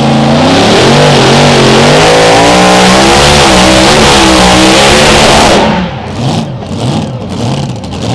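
Mini rod pulling tractor's engine running flat out under load, its pitch wavering up and down. About six seconds in the throttle is cut and the engine drops back to a lower, uneven run.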